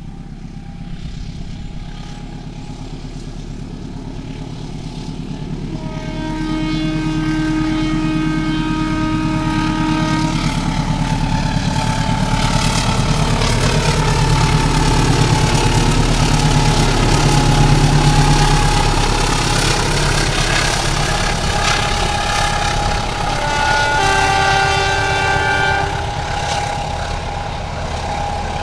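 Diesel-electric locomotive hauling a passenger train past close by, its engine running under load on a climb. Its multi-tone horn sounds about six seconds in for some four seconds, and again briefly near the end. The engine is loudest as the locomotive passes, followed by the rumble of the coaches rolling by.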